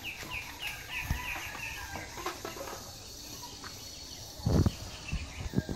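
A bird calling in a quick run of short falling notes, about four a second, over the first second or so. A few dull thumps follow about four and a half seconds in, the loudest sounds here.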